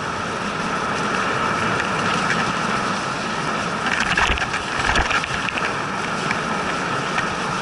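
Steady hiss and rumble of a dog sled gliding over a snow trail, with a few short knocks and bumps about four to five seconds in.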